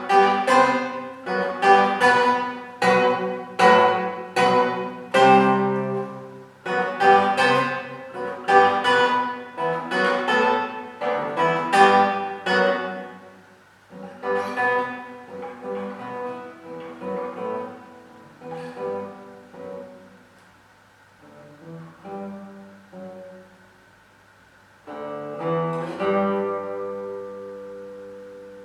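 Solo classical guitar. For the first half it plays loud chords struck in quick succession, about one every half second to second. It then drops to quieter, sparser single notes, and about 25 seconds in strikes one loud chord that is left to ring and fade.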